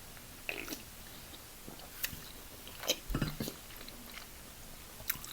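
Close-miked eating sounds: chewing and biting, with a few scattered short clicks and smacks.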